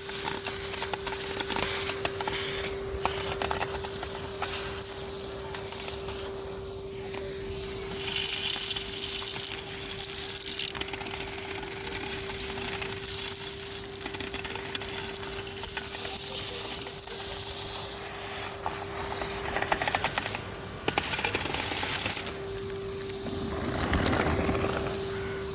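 Henry HVR200 vacuum cleaner running with a steady motor whine, while grit and debris from the street crackle and rattle up the hose in uneven spells.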